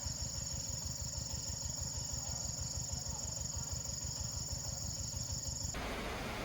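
Steady, high-pitched insect trilling over a low, rapid pulsing rumble; the trilling cuts off suddenly near the end.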